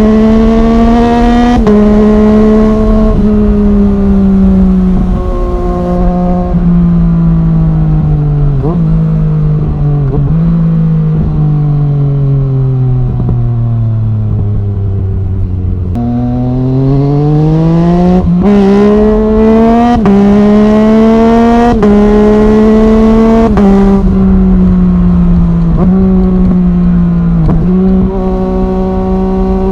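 Yamaha MT-09's three-cylinder engine through an Arrow Thunder full exhaust system, ridden through the gears. The revs fall away with a few downshifts, then about halfway through it accelerates hard. Each quickshifted upshift is a brief dip in pitch, and it settles to a steady cruise near the end.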